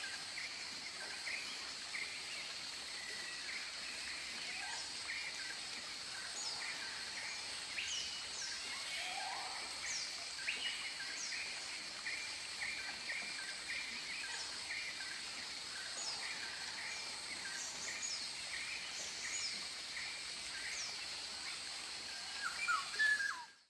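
Tropical forest ambience: many birds calling with short repeated chirps and quick falling whistles over a steady high-pitched insect drone. The recording cuts off abruptly near the end.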